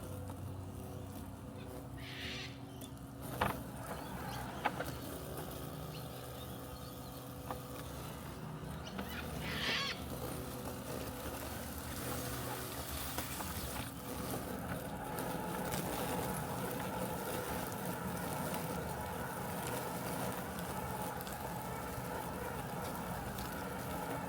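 Robotic lawn mower humming steadily, getting a little louder and fuller after about fifteen seconds. Two short bird calls come through, near two and ten seconds in, and there are two sharp clicks around three and a half and four and a half seconds in.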